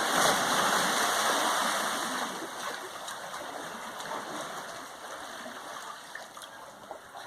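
Water sloshing and splashing out of a swimming pool, shaken by an earthquake. It is loudest at the start and dies down gradually as the waves settle.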